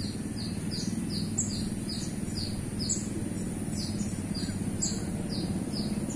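Small birds chirping steadily: short high notes that slide downward, about three a second, over a steady low background hum.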